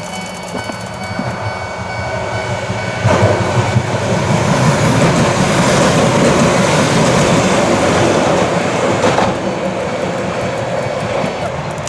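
A train passing over a level crossing: its wheel and rail noise comes in suddenly about three seconds in, stays loud for several seconds and eases off near the end. The crossing's warning bell rings steadily at the start, then is drowned out by the train.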